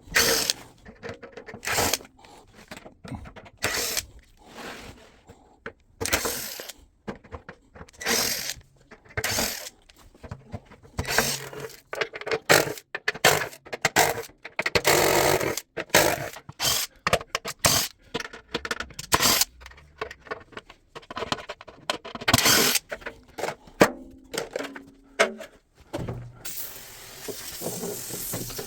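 Irregular clatter of clicks, knocks and scrapes from hand tools and plastic and metal parts as a top-loading washing machine is taken apart, sped up to three times normal speed. Near the end a steady hiss begins.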